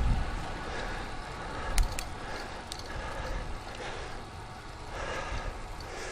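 Wind and road noise on a bike-mounted action camera's microphone while riding a road bike: a steady rush with a low rumble, and two sharp clicks close together a little under two seconds in.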